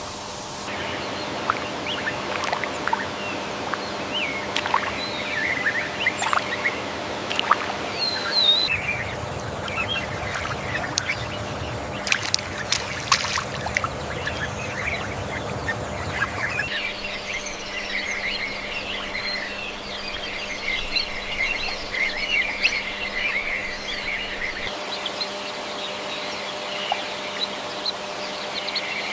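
Rainforest wetland ambience with many birds chirping and trilling. From about nine to seventeen seconds in, a stretch of running water joins in, with a few sharp clicks, and a faint steady hum runs underneath.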